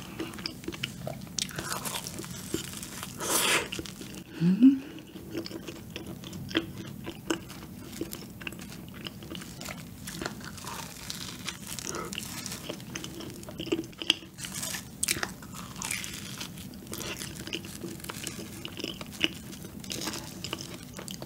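Close-miked biting and chewing of a soft, chocolate-cream-filled donut, with many small wet mouth clicks and smacks.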